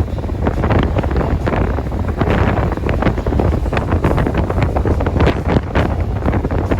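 Wind buffeting the microphone on a moving motorcycle: a loud, gusty rush over a steady low rumble.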